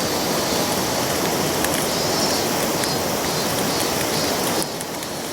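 Steady rushing of a river flowing, with a few faint ticks over it; the hiss thins a little near the end.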